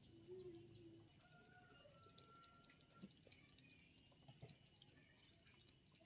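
Near silence with faint bird sounds: a short low coo near the start, a thin held whistle about two seconds in, and scattered soft chirps and ticks.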